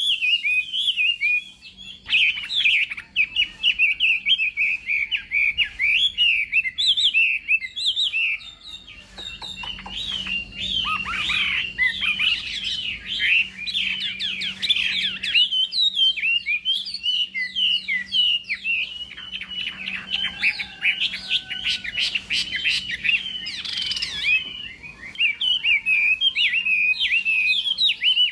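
Chinese hwamei singing a long, fast run of rapid, varied high notes, broken by a few short pauses.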